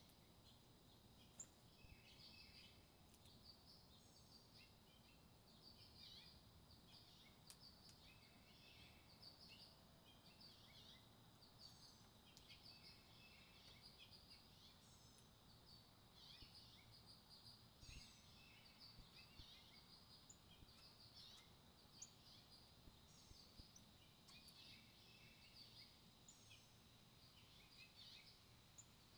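Faint wild birdsong: many short, high chirps and calls from several small birds, repeating throughout over a soft low background hum of the outdoors.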